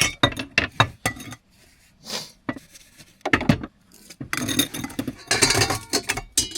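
Dishes and cutlery being handled and washed: a run of clattering knocks and clinks, some ringing briefly, coming thicker and faster in the second half.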